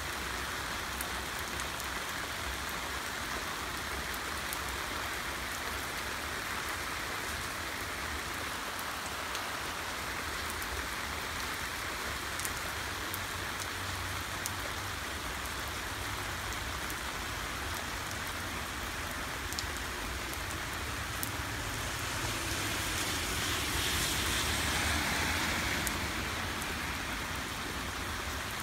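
Heavy rain falling steadily: an even hiss of rain on the ground and surfaces, with scattered close drops ticking. It swells louder for a few seconds near the end.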